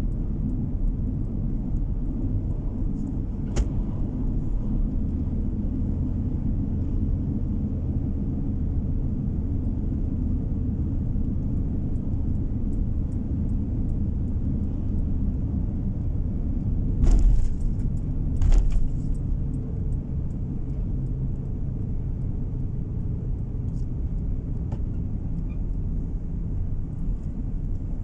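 Road noise inside a moving car: a steady low rumble of engine and tyres. Two heavy thumps come about a second and a half apart past the middle.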